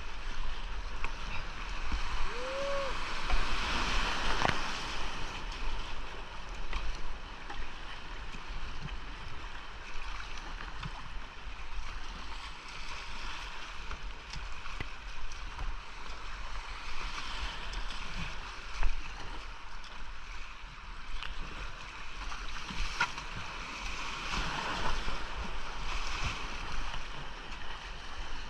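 Whitewater of a steep, rocky creek rushing and splashing around a kayak, with scattered paddle splashes and knocks. The water noise swells about four seconds in and again about twenty-five seconds in as the boat drops through louder rapids. A short rising-and-falling tone sounds about two seconds in.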